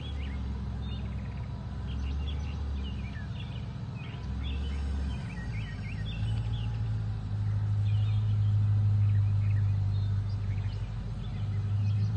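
1952 Chevrolet pickup's engine running with a low steady rumble that steps up in pitch and grows louder about six seconds in, as the truck moves off. Birds chirp over it.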